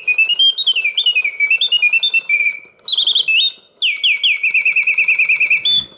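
Mid-1960s Reuge double singing bird cage's mechanical birds whistling in continuous mode: a bellows-blown whistle sings rapid warbling trills and swooping notes, with two short breaks about two and a half and three and a half seconds in. The birds sing with full voice.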